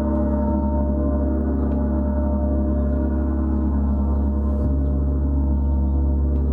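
A gong played in a continuous, steady wash of sound: many overlapping tones held without a break, with a strong deep hum underneath.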